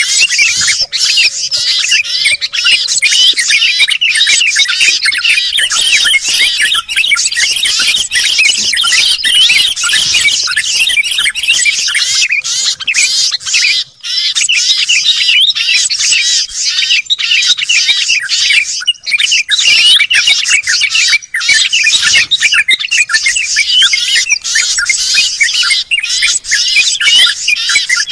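Dense chorus of many small songbirds chirping and twittering at once: rapid, overlapping high-pitched calls with almost no gaps. It is a mixed 'noisy birds' lure recording (suara pikat), played to draw wild birds down.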